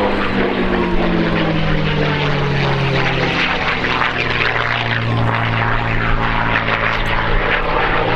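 P-51D Mustang's Merlin V12 engine running hard in a flying pass. Its pitch falls over the first three seconds as the aircraft goes by, then holds steady.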